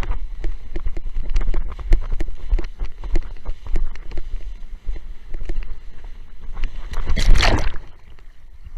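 Windsurf board hull knocking and slapping rapidly and irregularly over choppy water, with a low wind rumble on the microphone. About seven seconds in comes a loud splash lasting under a second.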